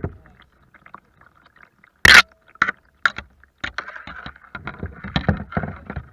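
Knocks and water sloshing around a kayak, with a loud sharp knock about two seconds in and a dense run of quick knocks and splashing in the second half.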